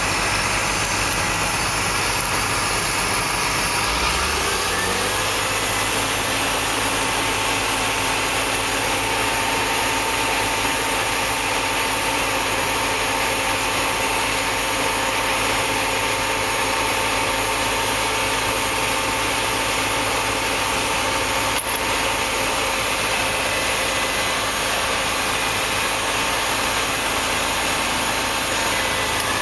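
Tractor engine running steadily; about four seconds in it speeds up a little, then holds at the higher speed.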